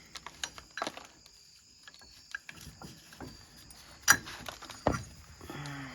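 Scattered light clicks and knocks of metal parts being handled during brake pad removal on a side-by-side's brake caliper, with two sharper knocks about four and five seconds in.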